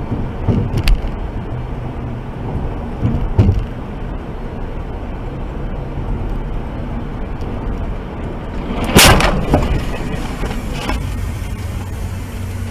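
Car driving, with steady road and engine noise picked up by a dashcam, and two sharp knocks in the first few seconds. About nine seconds in comes a loud bang, followed at once by a smaller one.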